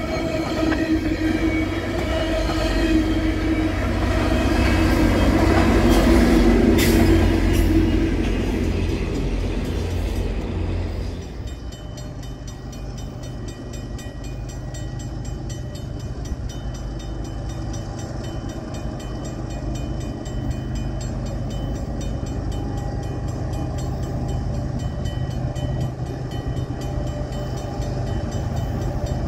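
Diesel train passing on the tracks. It is loud for the first ten seconds or so, then drops suddenly at about eleven seconds to a quieter, steady rumble.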